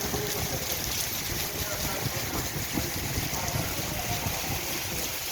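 Heavy rain pouring down in a steady downpour, an even hiss with no let-up.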